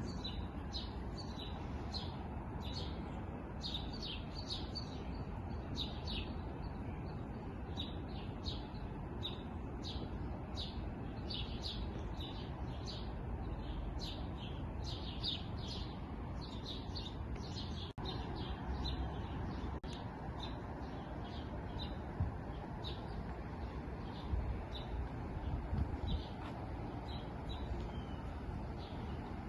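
Small birds chirping: a dense stream of short, high chirps that thins out over the last several seconds, over a steady low rumble.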